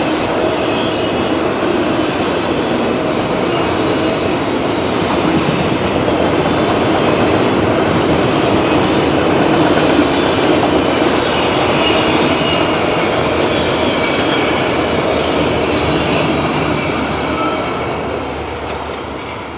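CN freight train's last cars rolling past at speed, a steady rumble of steel wheels on the rails that fades over the last few seconds as the end of the train moves away.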